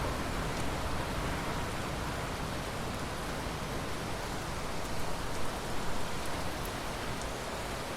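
Steady rain falling, an even hiss with a few louder patters about five to six seconds in.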